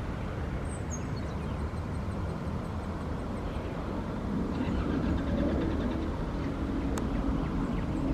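Jet engines of an Airbus A350-1000 (Rolls-Royce Trent XWB) rumbling, growing louder about four and a half seconds in as a low steady drone joins.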